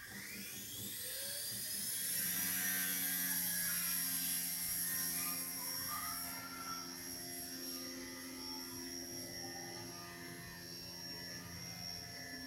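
WLtoys V977 micro RC helicopter's brushless motors spinning up, their whine rising in pitch over the first two seconds, then holding a steady high whine as it hovers.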